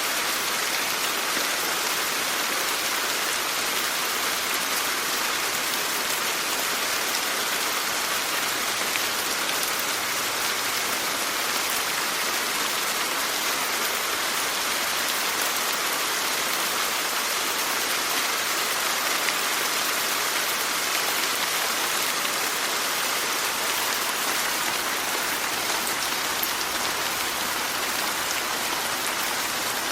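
Steady rain falling, an even unbroken hiss with no thunder or single louder drops standing out.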